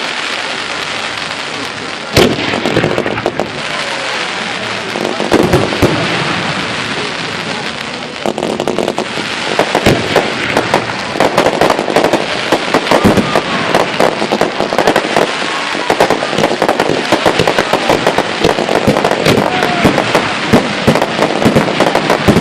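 Fireworks display: continuous crackling of firework bursts with many sharp bangs, a loud one about two seconds in, growing denser and busier from about nine seconds in.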